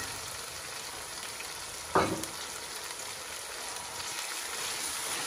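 Crushed garlic and ginger sizzling and crackling in hot oil, with a brief louder clatter about two seconds in.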